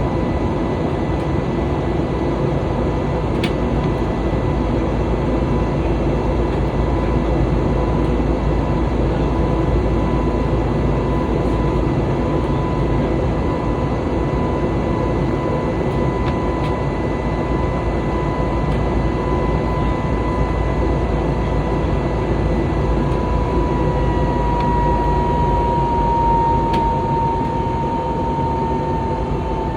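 Steady airliner cabin noise: engine and airflow rush with a high engine whine. The whine falls slightly in pitch near the end.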